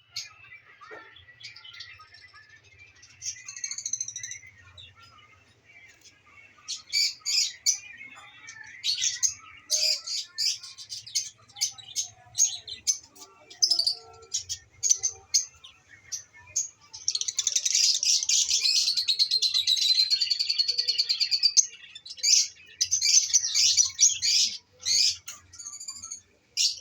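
Masked lovebirds chirping: short, sharp, high-pitched chirps in quick runs, with a stretch of rapid continuous chattering from about seventeen to twenty-two seconds in.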